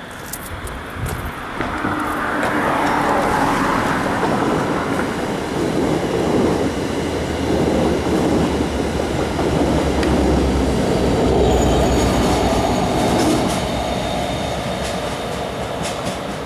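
NJ Transit passenger train passing under the bridge: its rumble builds over the first two seconds, stays loud, then fades near the end, with clicks of wheels over the rails and a brief high squeal late on.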